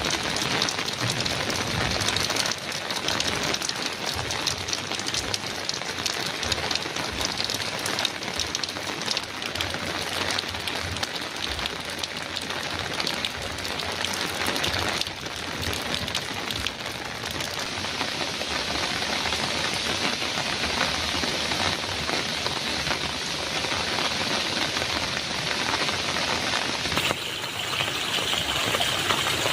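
Heavy rain falling on a metal roof: a dense, steady patter of drops. The sound shifts slightly in tone near the end.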